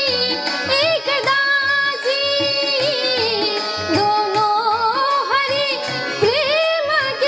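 Devotional bhajan music: an ornamented melodic line with frequent pitch bends over a sustained harmonium drone, with regular tabla strokes beneath.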